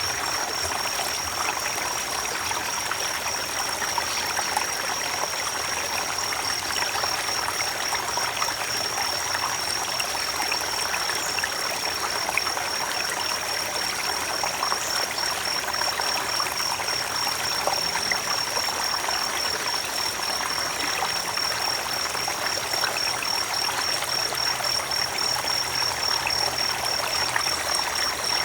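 A creek's water running steadily over stones in an even, unbroken trickle and rush. A thin, steady high-pitched tone sits above it.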